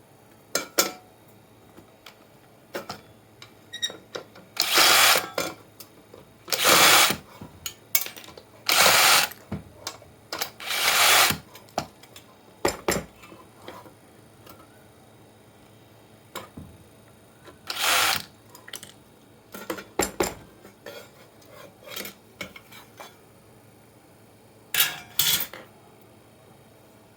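Hand and tool work on a computer power supply being taken apart: several short noisy bursts about a second long, with scattered clicks and knocks between them.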